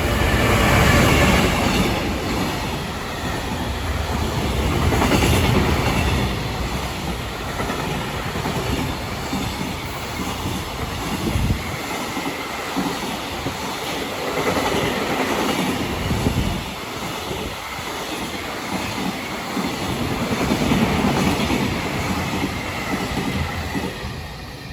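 Container freight train hauled by an EF210 electric locomotive passing through a station without stopping, a long, loud run of wagons going by, with the sound falling away sharply near the end as the last wagon passes.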